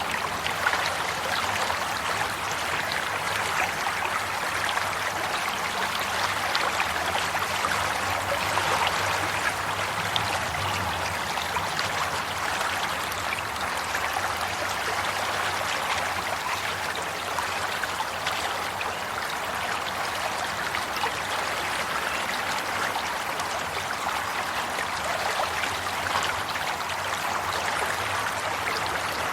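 Water flowing and babbling steadily, as in a stream, an even rushing and trickling that neither rises nor falls.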